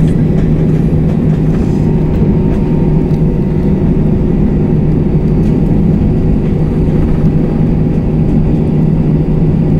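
Steady drone inside the cabin of an Airbus A321-232, its IAE V2500 jet engines running at idle after landing, with a constant low hum over a rumble.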